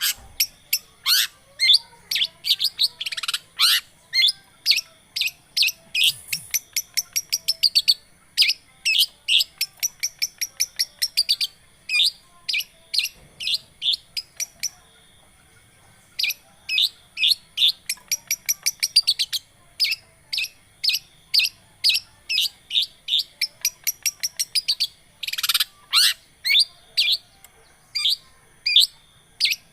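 Long-tailed shrike (cendet) singing: a fast run of sharp chirps and quick falling whistles, several a second. The song breaks off for about two seconds midway, then resumes.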